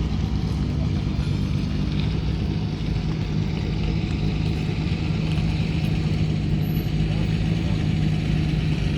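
Ford 289 V8 of a Cobra prototype idling steadily with an even low hum.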